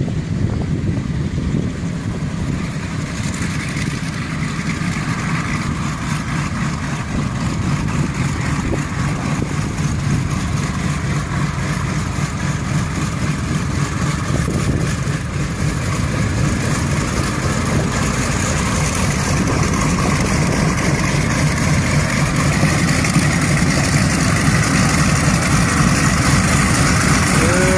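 An engine running steadily and growing slowly louder.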